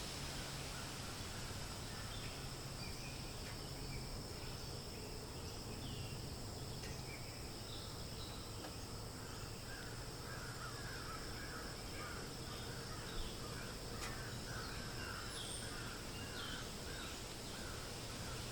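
Forest ambience: a steady hiss of wind through leaves with scattered bird chirps, and from about halfway through a bird calling over and over in quick succession. A single sharp tick sounds a little past the middle.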